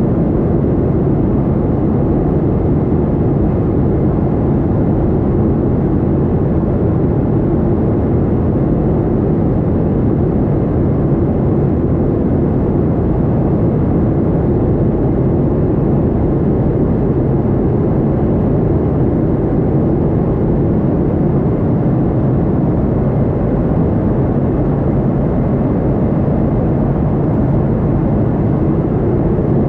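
Boeing 737-800 jet airliner: a steady low rumble of engine and air noise that holds the same pitch and loudness throughout.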